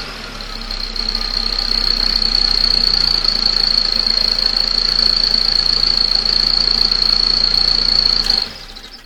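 Car engine idling with a fake turbo whistler in the exhaust, giving one steady high-pitched whistle over the engine note. Whistle and engine stop about eight and a half seconds in.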